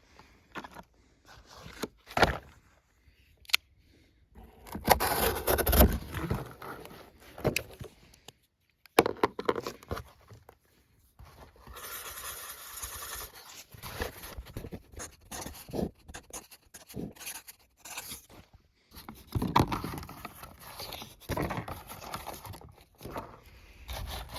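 Irregular scraping and rustling handling noises close by, broken by a few sharper knocks.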